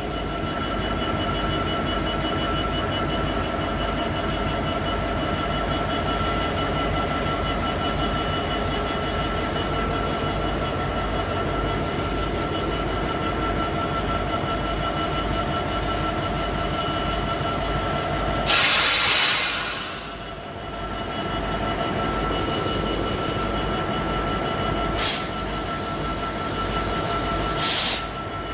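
Diesel train engine idling steadily at a standstill, with a loud burst of compressed-air hiss about two-thirds of the way in and two shorter hisses near the end.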